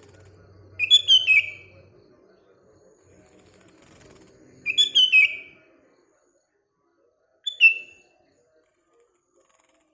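Sooty-headed bulbul (kutilang) singing three short, bubbly phrases of quickly falling whistled notes: one about a second in, one near the middle and a shorter one later. A faint low hum lies underneath in the first half.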